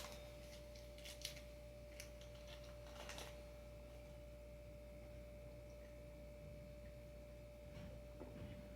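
Near silence: room tone with a faint steady high hum and a few faint light clicks about one, two and three seconds in.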